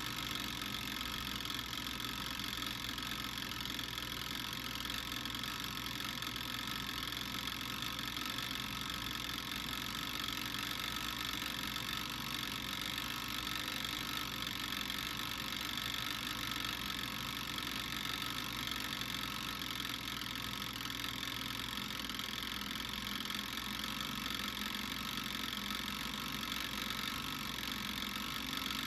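Steady, unchanging hiss and hum while garlic cooks over heat, with no distinct pops or crackles.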